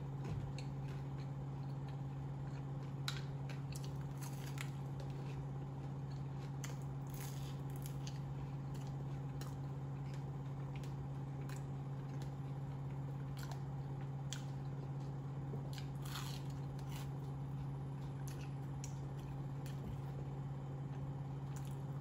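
Chewing and crunching of a fried apple pie pastry's crisp crust, in scattered crunches, over a steady low hum.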